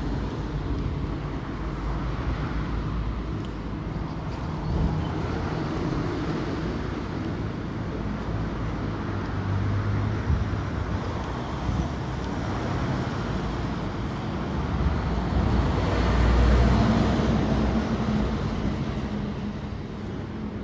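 Road traffic with vehicle engines running. The low rumble swells as a vehicle passes close, loudest about three-quarters of the way through, then fades.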